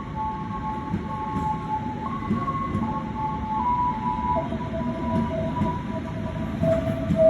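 KA Lodaya passenger train arriving, its cars rolling past with a steady rumble, over which one or two held high tones jump from pitch to pitch.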